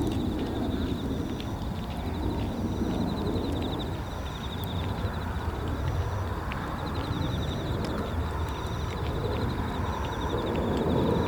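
Low, steady rumble of a Boeing 737-800's CFM56-7B turbofan engines heard at a distance as it climbs away after takeoff. Over it, insects trill steadily, with a short high chirp repeating about every second and a quarter.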